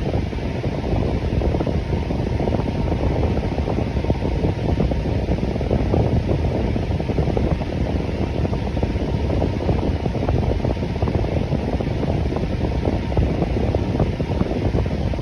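Electric fan running steadily: an even, low rushing of air with no changes or breaks.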